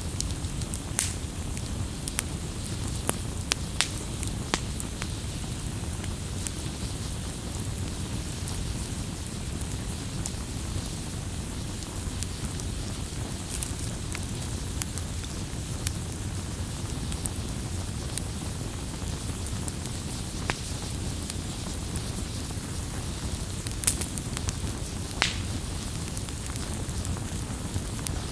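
Campfire burning with a steady low rumble and hiss, and wood crackling and popping in scattered sharp snaps, a few louder pops standing out.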